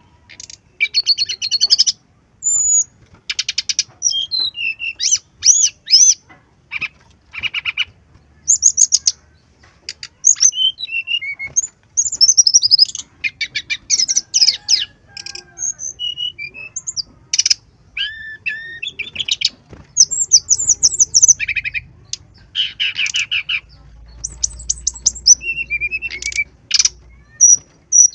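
Brown-chested jungle flycatcher (sikatan rimba dada coklat) singing continuously in short, varied high phrases: rapid buzzy trills and curling whistles with brief gaps between them.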